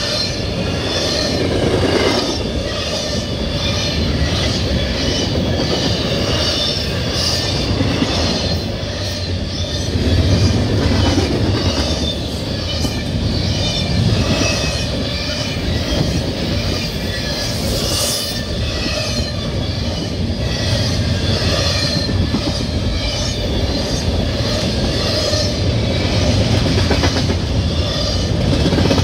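CSX double-stack container train's well cars rolling past at close range: a steady rumble and clatter of steel wheels on the rails that goes on without a break.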